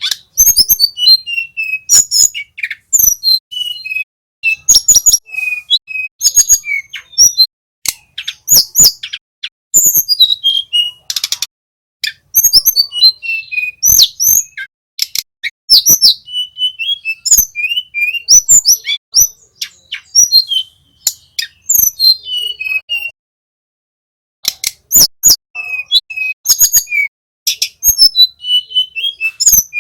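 Tledekan gunung song: rapid bursts of sharp, high chirps, trills and whistled notes in quick phrases, with short pauses between them and one longer pause about two-thirds of the way through.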